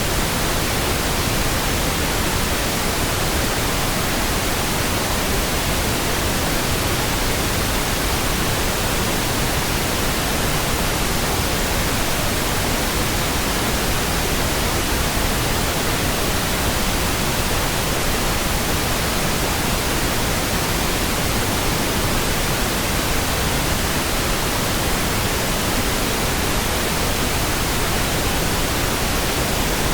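Steady pink noise: an even, unchanging hiss with no other sounds.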